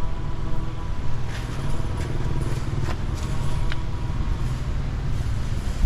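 Road traffic: a motor vehicle engine running close by, a steady low hum.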